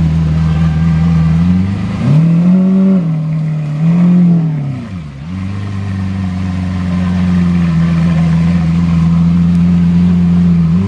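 Car engine running at high revs under steady throttle. About two seconds in the pitch rises and swells twice, then falls sharply as the throttle is lifted. It then settles back to a steady drone.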